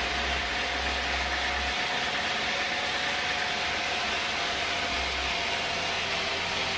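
Sawmill machinery running steadily: a continuous mechanical noise with a faint held hum.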